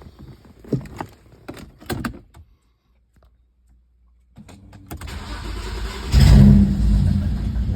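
A few clicks and knocks, a short silence, then the BMW N54 twin-turbo straight-six is cranked by its starter for under two seconds and catches with a brief loud flare about six seconds in, settling into a steady idle.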